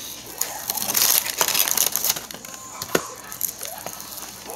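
Crunching and chewing of crispy fried chicken, an irregular crackle with a few sharper cracks.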